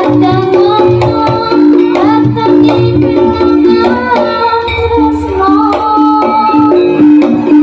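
Javanese jaranan music: an ensemble of hand drums (kendang) keeping a busy rhythm under a held, gliding melody line, possibly with singing.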